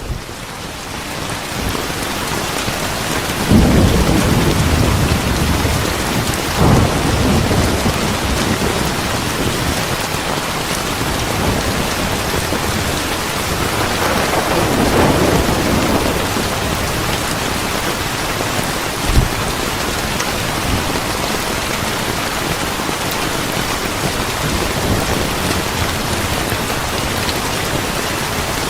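Steady rain falling, with rolling thunder swelling up about four seconds in and again around fourteen seconds, and a short low thump near nineteen seconds.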